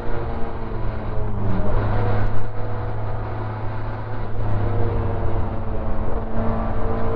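Opel Ascona 400 rally car's four-cylinder engine heard from inside the cabin, running hard at stage speed. Its steady note breaks up and wavers between about one and two and a half seconds in, then settles to a steady pull again in the second half.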